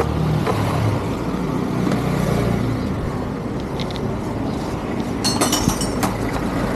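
A motor vehicle engine running steadily, with a few light metallic clinks a little after five seconds in.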